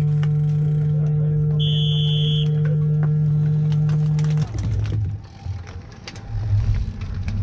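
A referee's whistle blows once for about a second, about two seconds in, over a loud steady low hum that cuts off suddenly a little after four seconds. Scattered clicks and rumble follow as the bicycle race starts.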